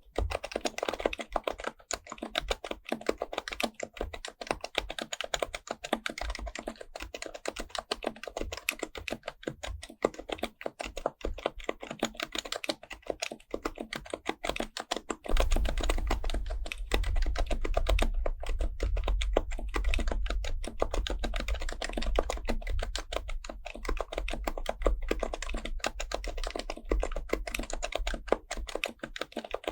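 Continuous fast typing on an HHKB Professional Type-S keyboard's silenced Topre switches: a dense, even stream of soft keystrokes. About halfway through, a strong low rumble joins under the typing and lasts most of the rest.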